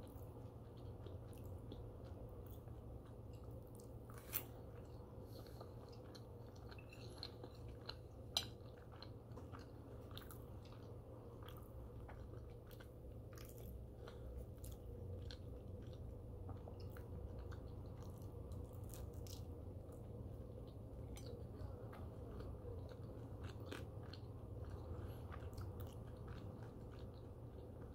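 Close-miked chewing and biting of French toast and crunchy turkey bacon: soft mouth sounds scattered with many small crisp crunches, with two sharper clicks about four and eight seconds in, over a steady low hum.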